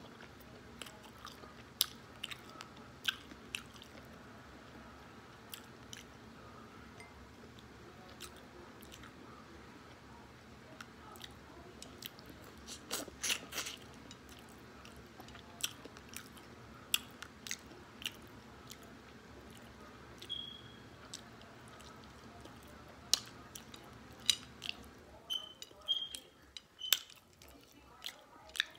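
A person chewing and biting food close to the microphone: scattered sharp mouth clicks and crunches, thickest about halfway through and again near the end, over a low steady hum that stops near the end.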